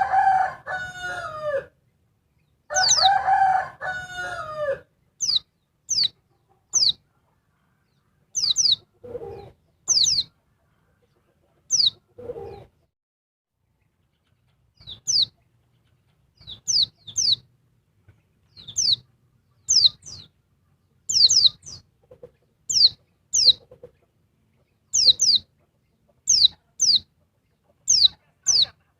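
A rooster crows twice in the first five seconds. Then a female pleci (white-eye) calls over and over: short, high chirps that sweep steeply downward, in quick twos and threes.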